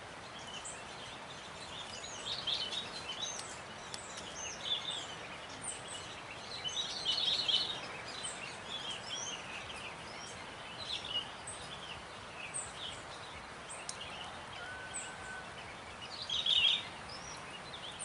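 Wild birds chirping and calling in many short high notes over a steady background hiss, with louder clusters of calls about seven seconds in and again near the end.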